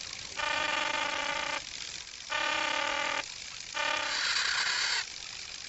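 Cartoon sound effects: three steady horn-like honks, the first two about a second long and the third short, then about a second of high hiss, part of a racket.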